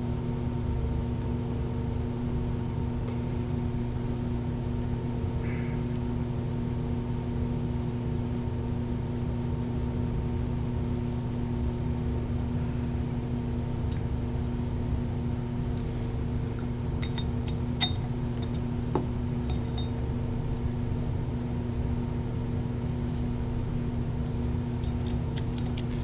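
Steady low electrical or machine hum in a small room, with a few faint light clicks of small metal parts and screws being handled about two thirds of the way through.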